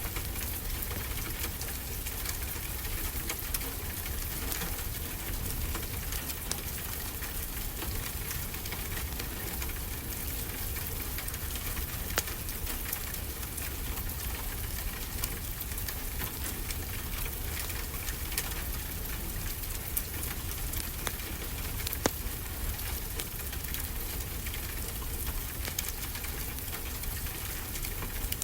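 Steady rain with a deep low rumble under it, mixed with a fireplace crackling, and a few sharper pops scattered through.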